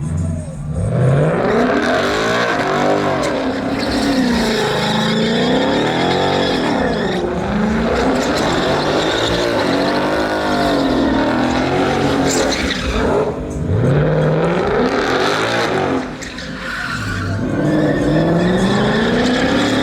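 Truck engine revving hard up and down over and over while the tyres spin and squeal in a burnout, with a brief dip in revs about sixteen seconds in.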